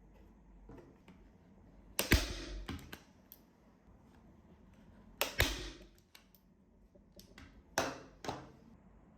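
Manual staple gun firing, three sharp shots about three seconds apart, with small clicks and handling noise between them.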